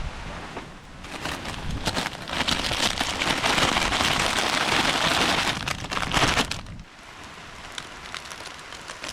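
Rain falling, an even hiss with scattered drops that grows louder about two seconds in and cuts off suddenly about seven seconds in.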